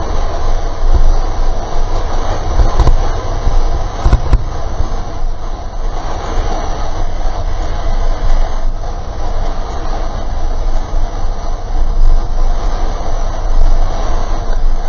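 A boat underway at sea: a loud, steady rumble with a rushing hiss of wind and water over it, rising and falling in level without a break.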